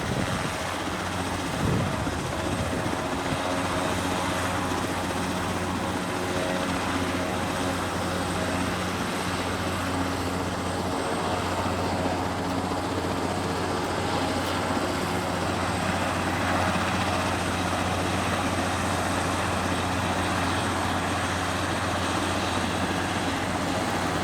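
Helicopter running steadily overhead, its rotor and engine making a constant, unchanging drone with a low hum.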